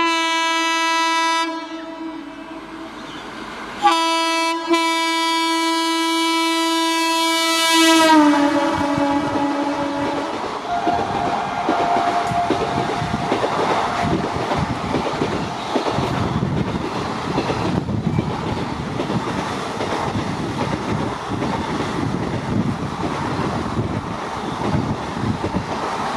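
Indian Railways electric locomotive's horn: a short blast, then a longer blast of about four seconds whose pitch drops as the locomotive passes. It is followed by the steady rush and wheel clatter of an express train speeding through without stopping.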